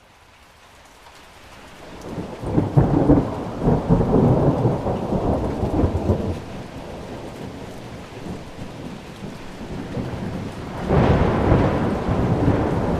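Thunder rumbling over steady rain, fading in from silence: a long rumble builds about two seconds in and eases off, and a second peal breaks near the end.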